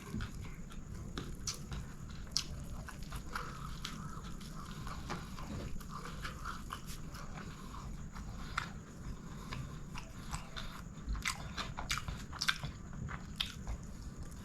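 Close-miked eating of chicken biryani: chewing and biting with many small, sharp mouth clicks and crunches, over a steady low background hum.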